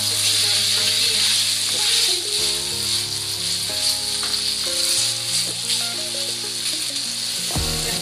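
Okra and sliced beef sizzling in a hot frying pan as they are stir-fried with a spatula, a steady frying hiss over soft background music.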